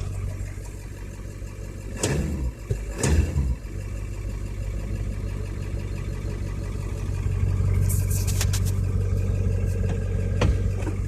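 Ford 7.3 Powerstroke V8 turbodiesel idling steadily just after a cold start. Two brief louder bursts come about two and three seconds in, and a few sharp clicks come near the end.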